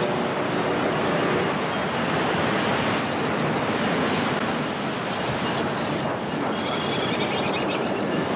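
Steady rushing noise of an approaching passenger train, with faint high-pitched squeals in the second half.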